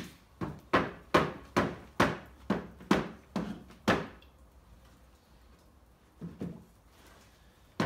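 Hammer striking into pallet wood: about nine steady blows a little under half a second apart, then two lighter taps after a pause and one more sharp knock near the end.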